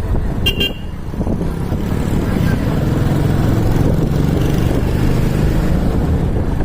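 Motorcycle riding along the road: steady low engine and road rumble with wind on the microphone. A short high beep comes about half a second in.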